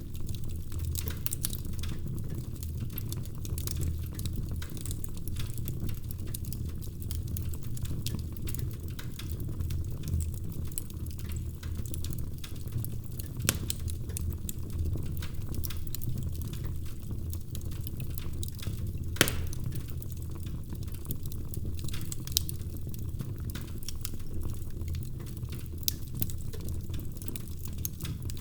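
Fire crackling in a fireplace: irregular small snaps and pops over a steady low rumble, with two louder pops about halfway and two-thirds of the way through.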